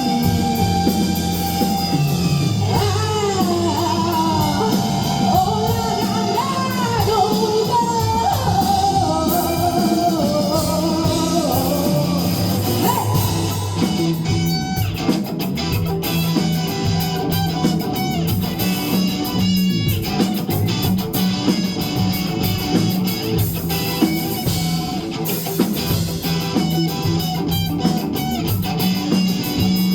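Live rock band playing: a sung melody over electric guitar, bass and drum kit for the first dozen seconds or so, then the band carries on without vocals, guitar to the fore over steady drums.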